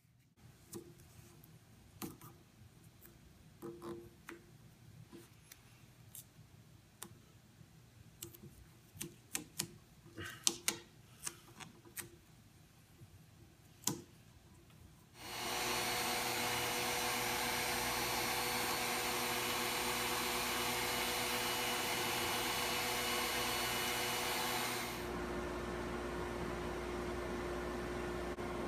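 Small clicks and knocks of metal parts and tools being handled for about fifteen seconds. Then a drill press motor starts and runs steadily, dropping to a quieter steady hum near the end.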